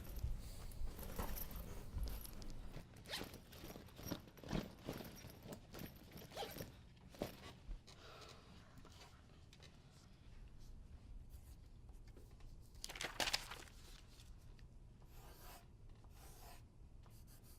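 Faint scattered rustling and scraping sounds of a classroom at the start of a test, with one louder zip-like rasp about 13 seconds in.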